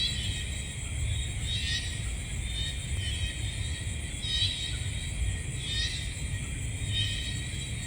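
Night-time chorus of insects: a steady high trill with a pulsed chirping call repeating every one to two seconds, over a low rumble.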